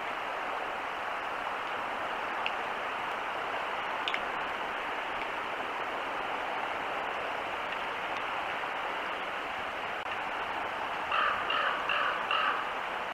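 Steady outdoor hiss with a bird calling four quick notes near the end.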